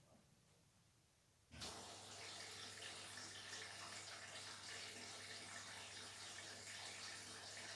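Beko WTK104121W washing machine's water inlet valve opening about one and a half seconds in, water rushing into the machine with a steady hiss over a low valve hum: the machine filling with water for its wash.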